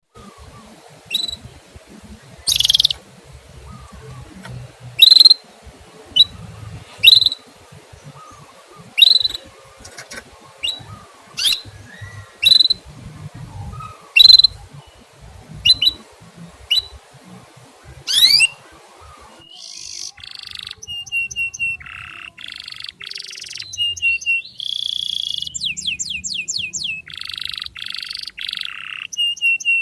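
Songbird giving single short, high chirps every second or two, then, after an abrupt change about two-thirds of the way in, a dense, fast song of trills and rapidly repeated notes.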